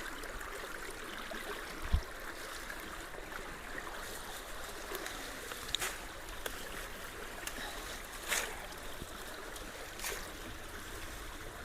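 Water running steadily through a culvert clogged with storm debris, with a few brief knocks as the debris is worked loose by hand.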